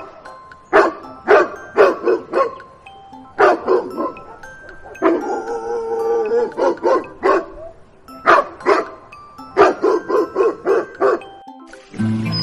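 Dog barking in quick bursts of two to five barks, with one longer drawn-out call about five seconds in. Faint music plays underneath.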